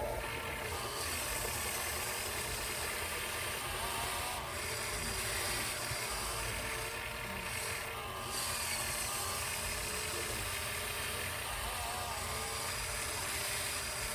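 Radio-controlled 1/14 scale truck running, a steady engine-like drone with faint short rises and falls in pitch over a low rumble.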